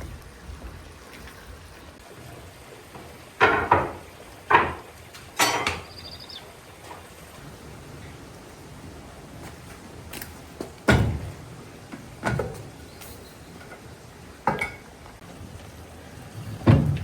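About eight sharp knocks and clatters at irregular intervals, some in quick pairs, over a low background hiss.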